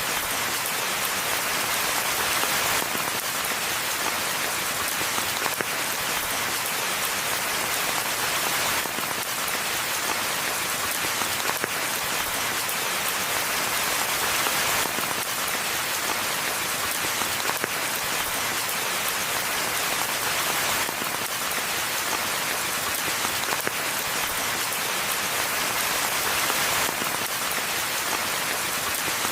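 Steady rainfall: a dense, even hiss of many raindrops, unchanging throughout.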